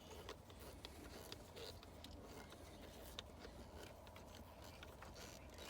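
Near silence with a few faint, scattered clicks from a Torx screw being driven into the distributor cap by hand.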